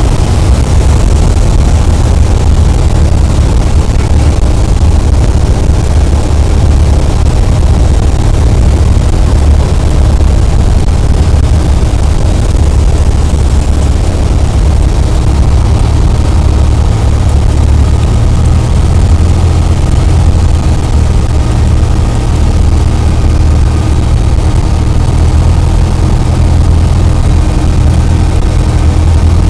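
Cessna 172's piston engine and propeller running in a steady low drone.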